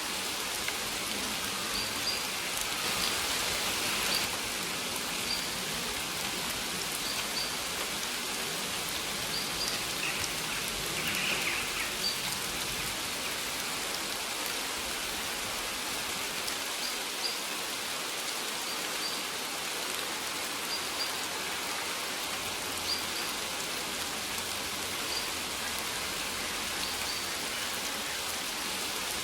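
Steady rain falling on surfaces, with a small bird's short high chirps repeating every second or two over it.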